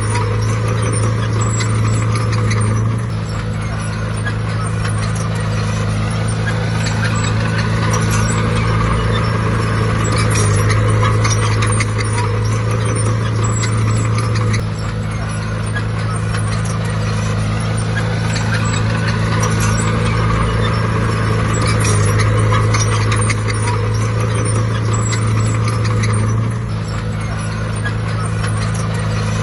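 Heavy diesel engine of earthmoving equipment running hard, its note swelling and easing every few seconds as the load changes, with a constant clatter of metal and soil over it.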